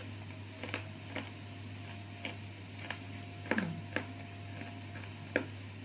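Close-up eating sounds: irregular soft clicks and smacks of chewing a mouthful of raw vegetables, over a steady low hum.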